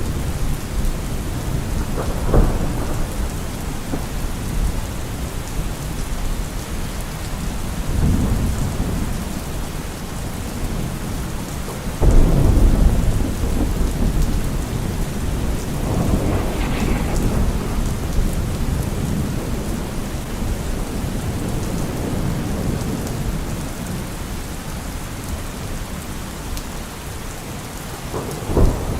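Heavy rain drumming steadily on a car roof, with thunder: a sharp crack about two seconds in, a rumble around eight seconds, a loud sudden clap about twelve seconds in that rolls on for a couple of seconds, another rumble a few seconds later, and a short crack near the end.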